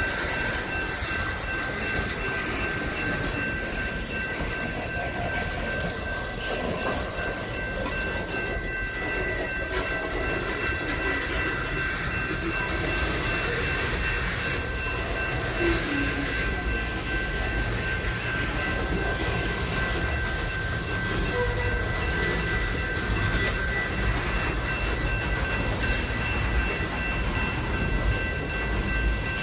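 Train rolling along the rails, a continuous rumble that grows a little louder and hissier about halfway through, with a steady high ringing tone held throughout.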